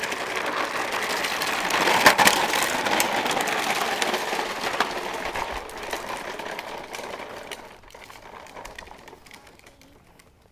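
Plastic toy dump truck towed behind a child's bike, rattling and clattering as it rolls over the ground, with a few sharp knocks about two seconds in, then fading away as it moves off.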